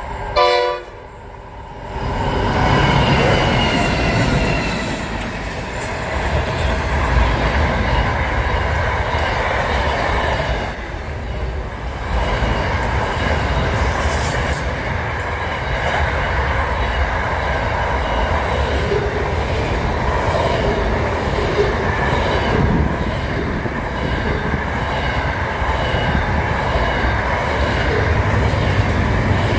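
A train running on the rails with a steady rumble and wheels squealing in several high steady tones. A brief, loud pitched sound comes about half a second in.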